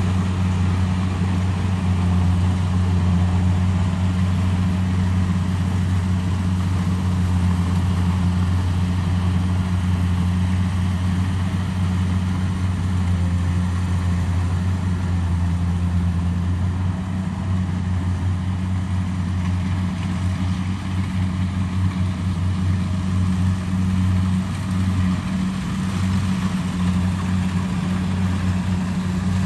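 Kubota DC70 Pro rice combine harvester running steadily: a constant low diesel engine hum under a wide mechanical noise.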